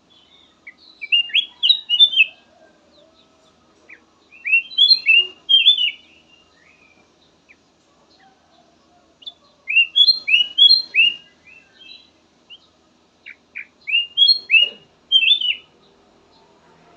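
Kutilang emas (a bulbul) singing: four short bursts of quick, clear whistled notes that slur downward, with pauses of a couple of seconds between phrases.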